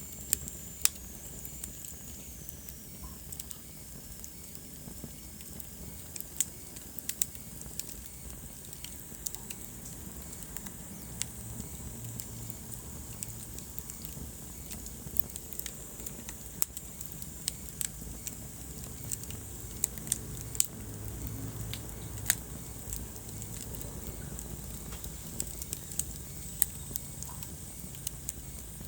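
Wood fire burning in a fireplace: a steady low rumble of flames with irregular sharp crackles and pops. A thin high whistle falls in pitch during the first few seconds.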